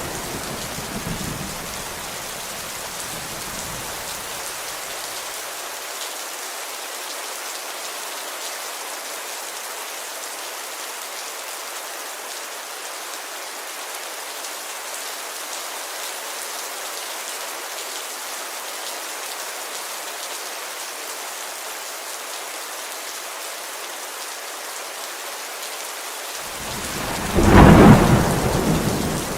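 Steady heavy rain on a window, with the tail of a thunder rumble fading over the first few seconds and a loud clap of thunder near the end that rumbles and dies away.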